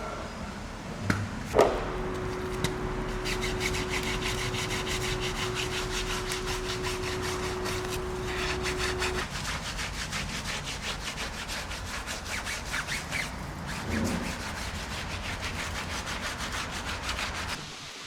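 Rapid back-and-forth scrubbing strokes of a brush or mitt on a car during a hand wash. A sharp knock comes about a second and a half in, and a steady hum runs under the scrubbing for several seconds.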